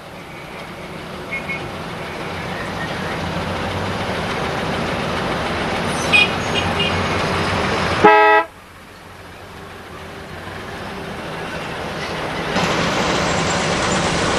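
Motor traffic with vehicle horns tooting: engine and road noise grows steadily louder, with short toots early on and around six seconds in. A loud horn blast comes about eight seconds in, then the noise drops away suddenly and builds up again.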